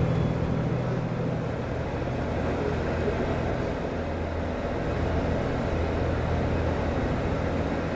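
Car ferry's engines running with a steady low drone, the hum shifting lower about four seconds in.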